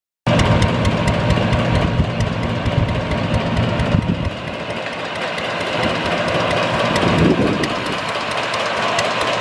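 Natural gas engine on a coal bed methane well chuffing steadily, driving the pump that draws water off the well so more gas can be produced.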